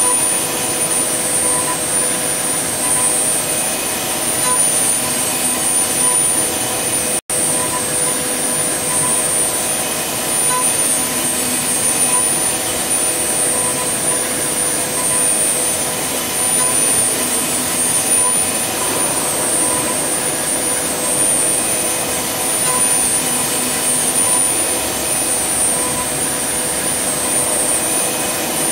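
CNC wood lathe running its finishing pass with a 6 mm ball-nose cutter: a steady machine whir with a high-pitched whine and humming tones over a rushing noise. The sound cuts out for an instant about seven seconds in.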